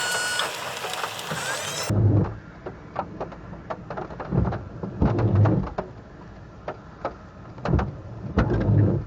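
A short stretch of high chirps, then, after a cut about two seconds in, rain: many sharp drop ticks with heavy low rumbling gusts of wind buffeting the microphone.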